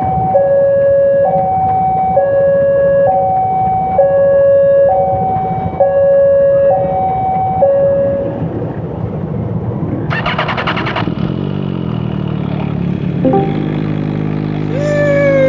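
Two-tone emergency-vehicle siren alternating between a high and a low note about once a second, over road and engine noise, stopping about eight seconds in. A short harsh burst follows, then a steady droning hum with falling whistle-like tones near the end.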